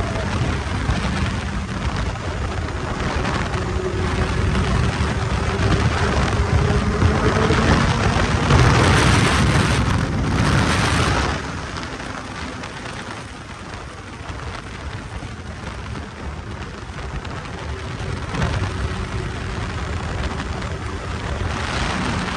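Kawasaki Z800 inline-four motorcycle riding on the road, its engine hum faint under heavy wind rush on the microphone. The wind noise swells louder about a third of the way in and drops off suddenly just before halfway.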